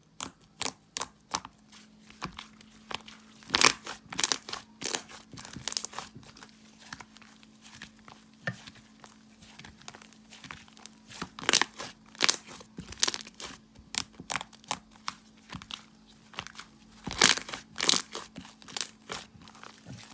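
Slime being squeezed and stretched by hand, giving irregular sticky pops and crackles, with louder clusters of pops a few times.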